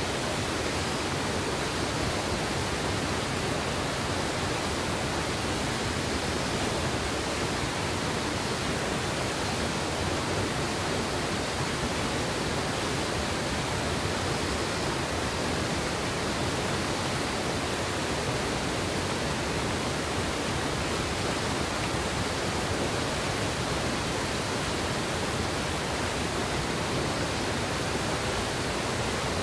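Mountain river water rushing in a steady, unbroken wash, like rapids or a small waterfall.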